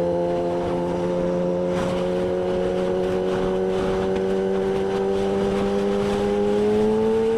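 Kawasaki ZX-10R's inline-four engine running at a steady highway cruise, its pitch creeping slowly upward and rising a little more near the end, with wind rush over it.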